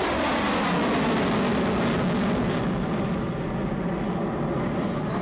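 F-14 Tomcat jet fighter making a low pass with its two engines in afterburner, a loud, steady roar whose pitch drops over the first second or so as it goes by.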